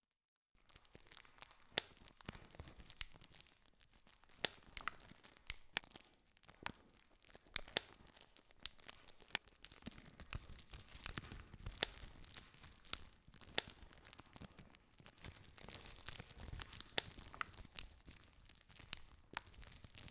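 Wood campfire crackling, with many sharp pops and snaps over a soft hiss of burning. It starts suddenly about half a second in.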